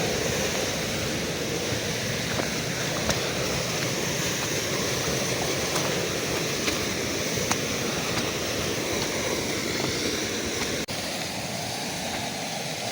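Steady rush of flowing water, with a few faint ticks and a brief dropout about eleven seconds in.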